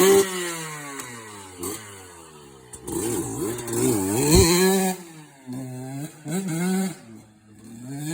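Motorcycle engine, loud at the start and then falling in pitch and fading over the next two seconds. From about three seconds in it revs up and down, then gives several short throttle blips and builds again near the end.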